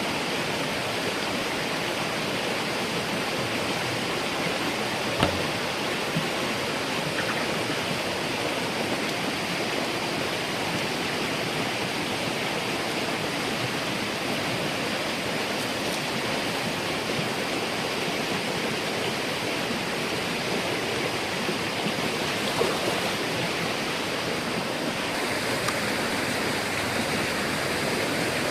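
Steady rush of running water, with a couple of faint knocks.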